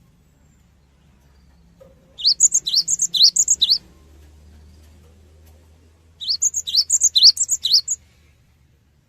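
Cinereous tit (gelatik batu) singing: two quick bouts of repeated rising, whistled notes, each lasting about a second and a half, a couple of seconds apart.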